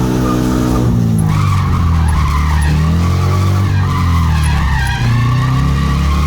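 Scion FR-S drift car sliding: engine running hard under a wavering tyre squeal. About a second in, the engine note drops and the squeal comes up.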